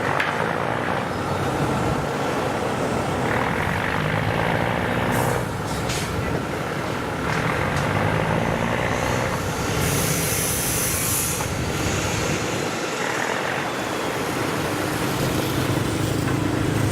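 Diesel engines of 1967 Hitachi RHN railcars running steadily as the railcars move off, with a burst of air hissing, like an air brake release, about ten seconds in.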